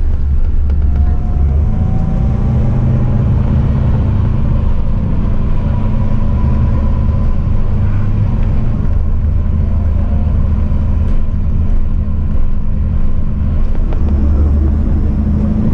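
A steady low engine rumble with a faint whine that rises slowly in pitch.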